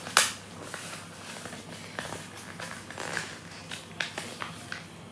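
Sheet of paper being folded and creased by hand: irregular crinkling and crackling, with one sharp crack about a fifth of a second in.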